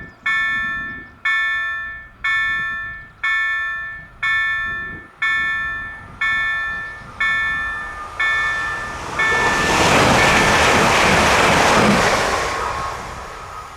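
Level crossing warning bell striking about once a second, each strike ringing and dying away, while a Koleje Dolnośląskie 48WEc electric multiple unit passes over the crossing; its rush drowns the bell for about three seconds and then fades.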